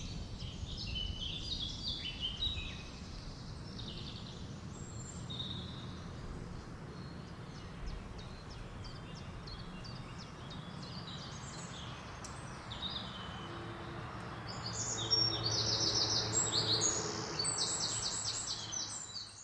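Forest birds chirping and singing over a steady low rush of wind. Near the end one bird gives a fast trill of evenly repeated high notes, and the sound fades out at the very end.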